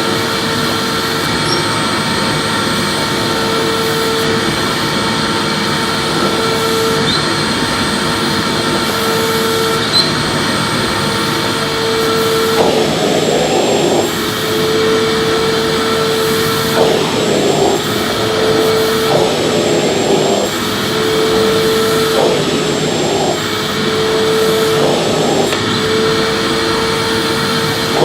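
Electric vacuum cleaner running and being pushed back and forth in sweeping strokes: a steady motor whine whose hum breaks about every two seconds. From about halfway in, the sound surges rhythmically with each stroke.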